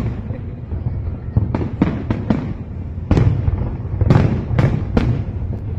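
Fireworks display: a run of sharp bangs and crackles over a continuous low rumble. A quick cluster of cracks comes about two seconds in, and heavier bangs follow from about three seconds on.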